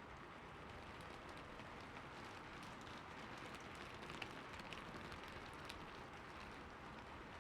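Steady, faint rain falling on a roof, an even patter with scattered individual drops ticking.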